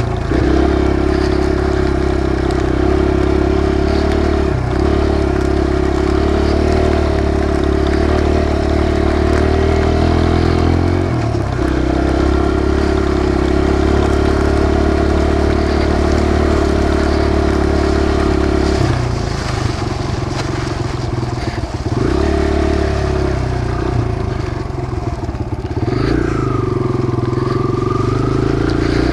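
Kawasaki KLX140 dirt bike's single-cylinder four-stroke engine running under way as it is ridden, holding steady revs with brief dips as the throttle is eased. Past the middle it runs lower and more unevenly for a few seconds, and near the end the revs drop and climb again.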